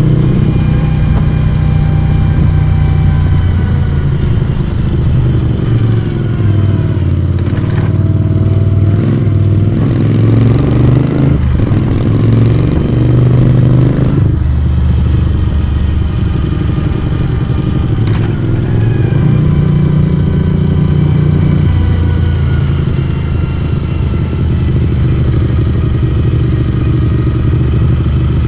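Moto Guzzi V35's air-cooled transverse V-twin running under way, heard through its exhaust from the rider's position. The engine note falls and rises again about a quarter of the way in, briefly drops out twice near the middle, then holds steady.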